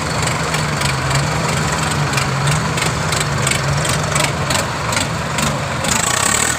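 Tractor diesel engine running steadily, a constant low hum with a fast, even ticking over it.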